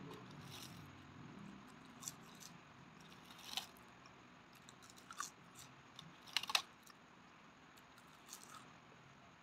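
Close-miked chewing of food with scattered short, crisp crackles, the loudest a quick cluster about two-thirds of the way through. Near the end a sheet of dried seaweed is bitten into.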